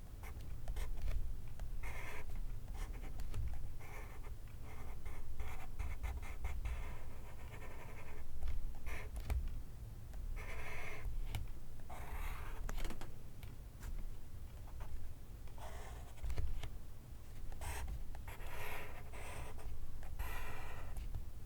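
Pencil writing on paper: a string of short scratchy strokes with brief pauses between them.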